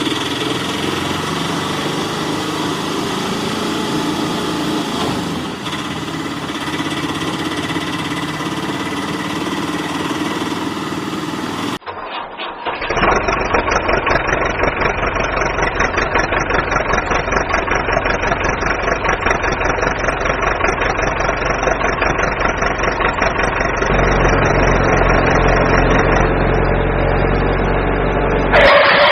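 Engine running steadily with a low even hum. About twelve seconds in it cuts abruptly to a second engine sound with a fast, even chugging pulse, which gets heavier about two-thirds of the way through.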